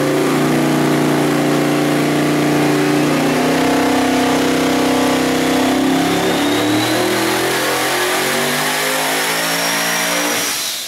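Twin-turbo LS-based V8 running on an engine dyno, held at a steady speed that steps up a couple of times and then climbs slowly, with a faint high whistle rising over the last few seconds. The engine cuts off just before the end.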